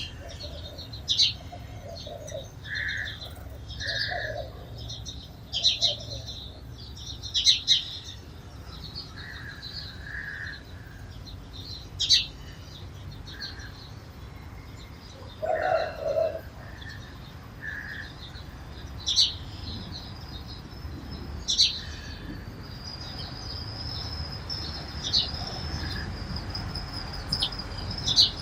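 Sparrows chirping: short, sharp chirps at irregular intervals, some single and some in quick pairs, with a lower call about halfway through. A steady high-pitched tone joins in about two-thirds of the way through.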